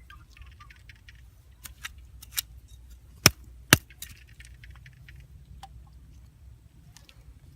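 A few sharp clicks, then two loud knocks about half a second apart, over a low steady rumble.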